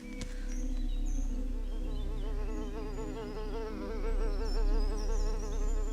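Buzzing of a flying insect close by, its pitch wobbling up and down as it moves, getting louder around the middle. Small birds chirp faintly in the background over a low rumble.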